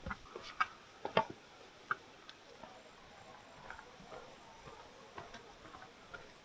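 Footsteps and walking-stick taps on a rocky trail: irregular sharp clicks and knocks, the loudest a little over a second in, over a faint steady rush.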